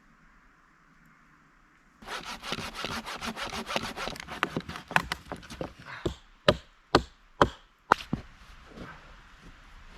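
Hand saw cutting through wood, quick back-and-forth strokes starting about two seconds in, followed by five sharp cracks or knocks about half a second apart and some quieter scraping.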